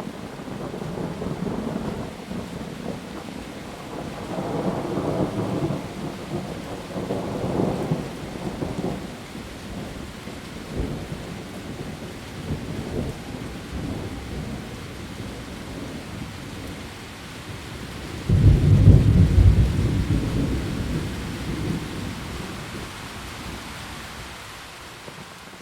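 Heavy rain falling steadily on leaves, with rolling thunder. The thunder rumbles through the first several seconds, and a louder clap comes about eighteen seconds in and rolls away over several seconds.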